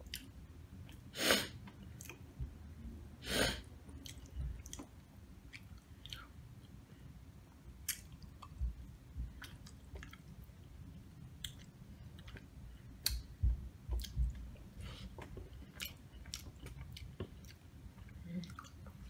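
Close-miked eating: a person chewing leftover nachos picked by hand from a glass baking dish, with scattered small clicks and taps. There are two louder, longer noisy bursts about one and three seconds in.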